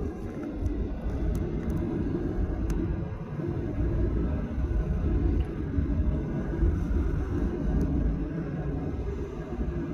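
Low, uneven rumble inside the cabin of a Boeing 737-800 airliner, swelling a little in the middle, with a few faint ticks and rattles.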